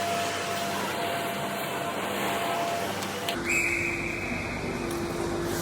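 Steady background noise of a game in play in a sports hall, with faint steady hums. The sound changes abruptly about three and a half seconds in, where the footage jumps to a later moment, and a steady high tone comes in.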